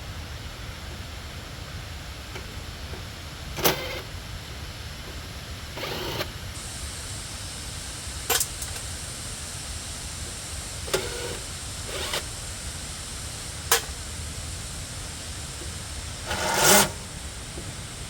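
A series of separate sharp knocks and clinks, about seven, typical of tools and metal parts being handled during a repair, over a steady background hiss. The last knock, near the end, is the loudest and longest.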